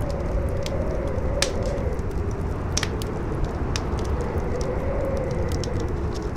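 Campfire crackling with scattered sharp pops, over howling wind whose tone slowly rises and falls, with a low wind rumble beneath.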